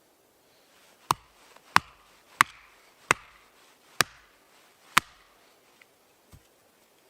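Chopping with a blade: six sharp strikes, about two-thirds of a second apart at first and then slowing, followed by two faint taps near the end.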